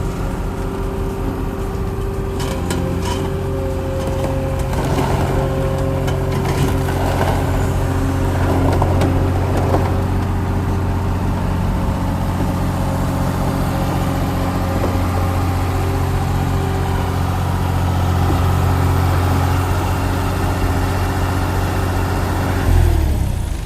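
Diesel engine of a John Deere skid steer running steadily, with clanks and rattles over the first ten seconds or so. The engine cuts off about a second before the end.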